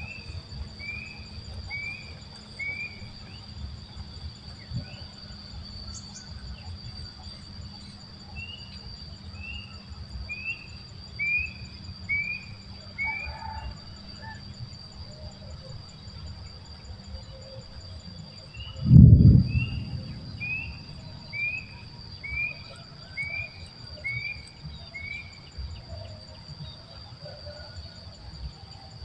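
Steady high-pitched insect drone outdoors, with a bird calling in runs of short repeated chirps, about one a second. About nineteen seconds in there is a single loud low thump.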